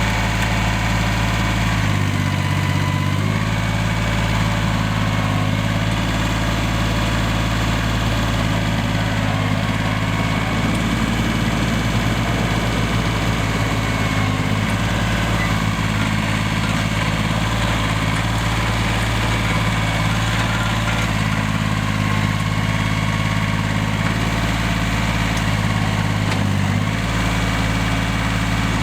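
Yanmar 180D tractor's small diesel engine idling steadily, its note shifting slightly a couple of seconds in and again near the end.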